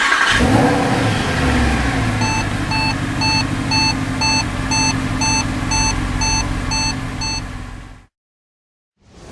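A vehicle engine running, with a rapid electronic beeping over it from about two seconds in, about three beeps a second. It all cuts off abruptly near the end.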